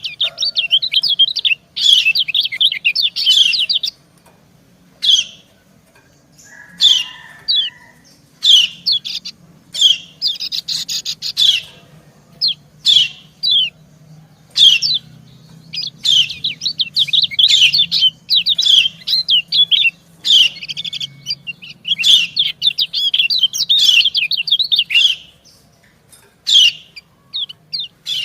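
White-eyes (kecial) calling: bursts of rapid, high twittering chirps lasting a second or two, broken by short single calls and brief pauses. These are the female's 'ciak' calls alternating with the male's, used to rouse caged white-eyes.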